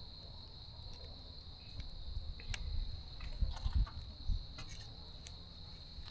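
Crickets trilling steadily in one high, unbroken tone, with a few faint scattered clicks and low rumbles underneath.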